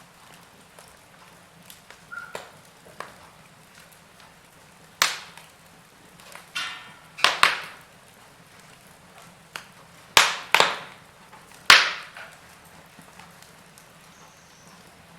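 Burning logs in a fireplace crackling, with scattered small snaps and about half a dozen loud, sharp pops clustered in the middle, over a faint steady hiss.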